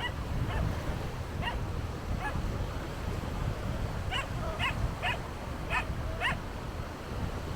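A dog yapping in short high-pitched barks: a few spaced out, then five in quick succession in the second half.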